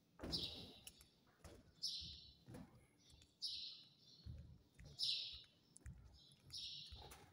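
A bird giving a short, high chirp over and over, about every one and a half seconds, with faint low thuds of footsteps on a concrete floor.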